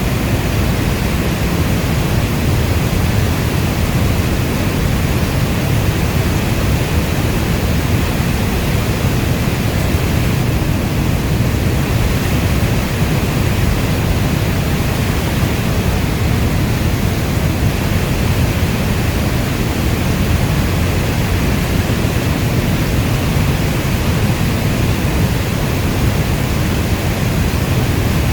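Heavy rainstorm, a steady dense hiss of rainfall heavy in the low end, unchanging throughout with no distinct drops or thunder.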